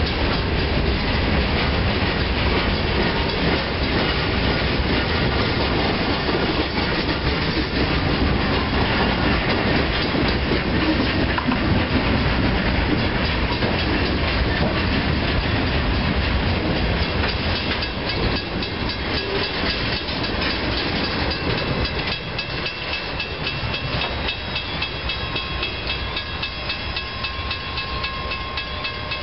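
Freight train of boxcars rolling past a grade crossing, steel wheels clattering over the rail joints with a steady rumble. It grows quieter over the last several seconds.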